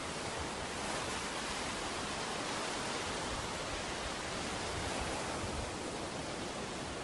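Surf on a beach: a steady rushing wash of waves, swelling slightly and easing off again.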